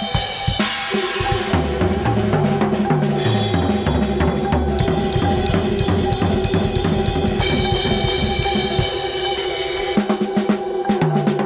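Drum kit played freely with busy bass drum, snare and rim strokes. It sits under an added electronic soundscape of held droning tones and a low bass line that steps between notes, which drops out near the end.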